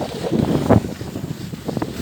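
Wind buffeting the microphone: a rough, gusting rumble with a stronger gust about a third of the way in.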